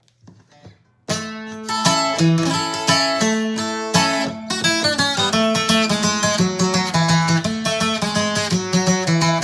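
Acoustic guitar playing a picked requinto-style arrangement in 2/4, single melody notes over an alternating bass line, starting about a second in after a few faint taps.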